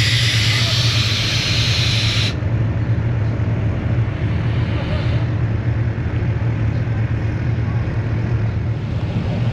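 Truck engine running with a steady low rumble; a loud hiss over it stops abruptly about two seconds in.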